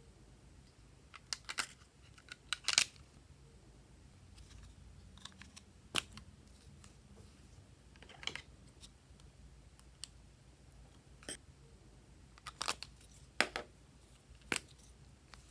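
Slime being squished and mixed by hand, making irregular sharp clicks and pops, some in quick clusters of two or three.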